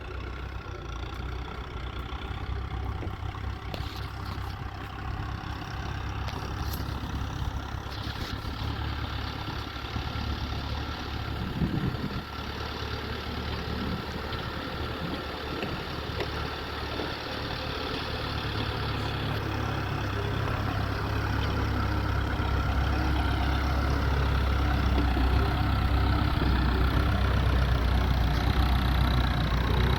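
Tractor engine idling steadily, growing louder over the second half.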